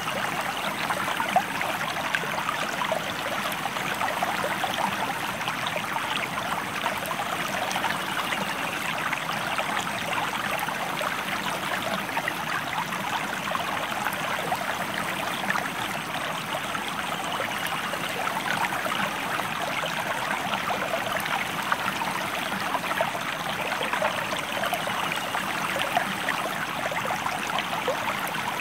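Flowing river water running steadily, a dense, even rush of fine splashing.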